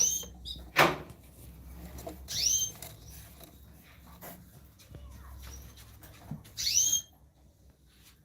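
Small caged birds calling: three loud, high, upswept calls, each about half a second long, a few seconds apart, with a short sharp click just under a second in.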